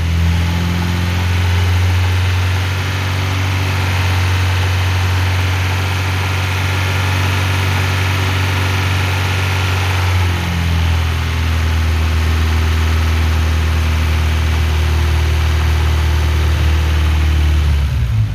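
Fiat Palio's four-cylinder petrol engine idling steadily while it warms up, with a slight change in its tone about ten seconds in.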